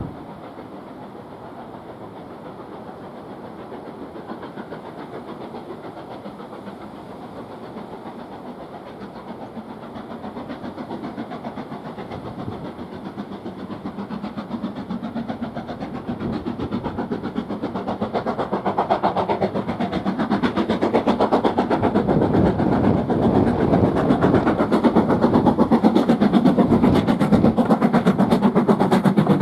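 Steam-hauled train approaching, growing steadily louder until it is close by near the end.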